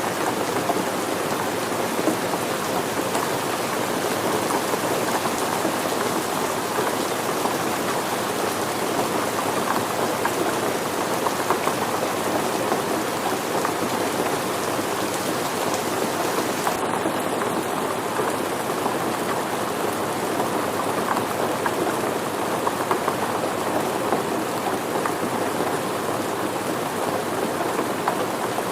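Steady, even rain falling, with many separate drops heard through the hiss.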